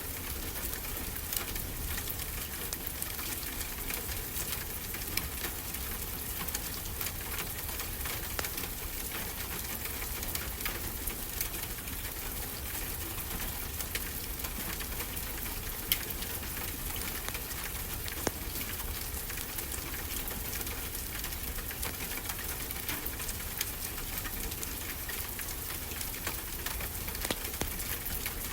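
Fireplace crackling with frequent small pops and a sharper pop about sixteen seconds in, over a steady low rush of ocean surf.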